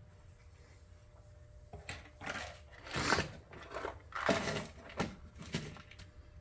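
Handling noises on a workbench: about half a dozen short rustles and scrapes, starting about two seconds in, over a low steady hum.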